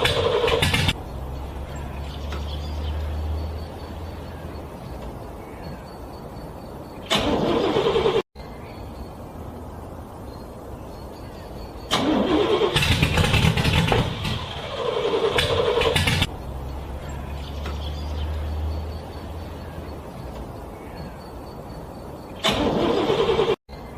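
Car engine cranking in repeated loud bursts of a few seconds, a cold engine struggling to start. Between the bursts there is a quieter steady low rumble. The sequence repeats, with two abrupt cut-outs.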